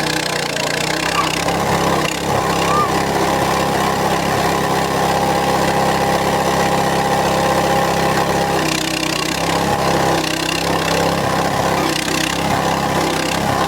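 Small engine-driven cassava grinding machine running steadily, grinding cassava; from about nine seconds in the sound turns harsher and noisier in uneven patches.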